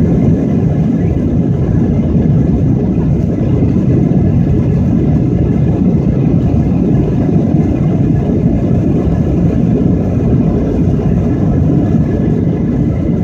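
Jet airliner cabin during the takeoff roll: the Boeing 737's engines at takeoff power and the runway rumble make a loud, steady low rumble with faint steady high engine tones above it.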